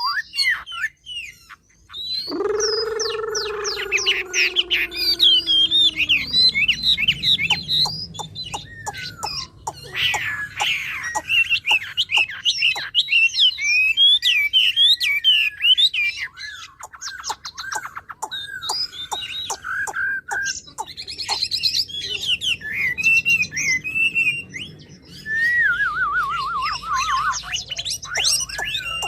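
Chinese hwamei singing a loud, varied song of rapid whistles, trills and sweeping notes. A lower, drawn-out sound falls in pitch for a few seconds about two seconds in.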